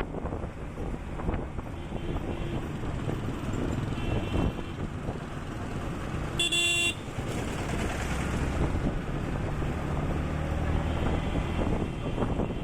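Motorcycle ride in traffic: steady engine and wind noise, with one short, loud horn toot about six and a half seconds in and fainter horn beeps around two and four seconds.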